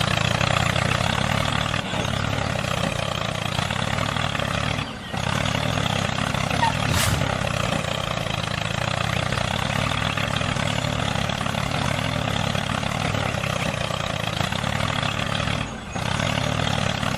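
Mini tractor's engine running steadily, with two brief dips, about five seconds in and near the end.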